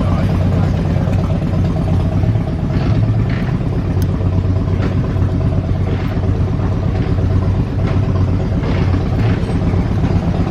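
Engine running steadily at a constant speed, with an even low hum and faint clatter over it.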